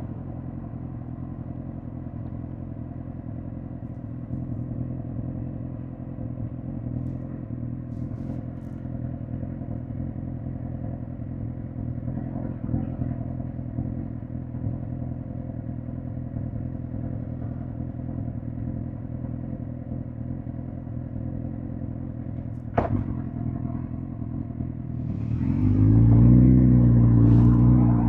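2005 Suzuki GSX-R1000 K5's inline-four engine idling steadily, with one sharp click about 23 seconds in. Near the end the revs rise and the bike pulls away, the engine note climbing through the gears.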